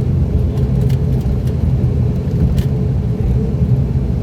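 An ATR 42-600's twin turboprop engines and propellers droning steadily, heard from inside the passenger cabin.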